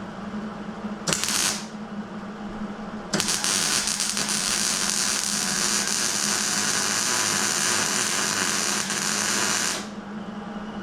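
Plasma cutter firing: a short half-second burst of hissing air and arc, then a steady hiss for about seven seconds as it cuts, stopping abruptly. A steady low hum runs beneath it.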